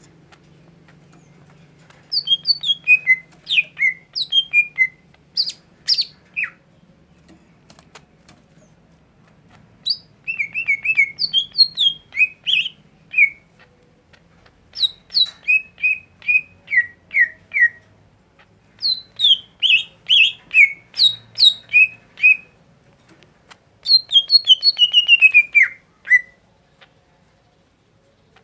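A songbird singing in phrases of quick, high chirps that mostly slide downward, five phrases of a few seconds each with short pauses between them.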